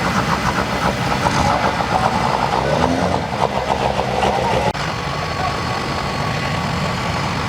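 Diesel truck engine idling with a rapid, clattering rhythm. About five seconds in the sound cuts abruptly to a steadier engine running.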